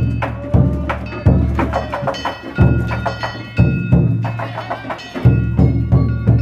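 Danjiri festival percussion: a large taiko drum struck in an uneven beat about once a second, with hand-held kane gongs clanging rapidly over it.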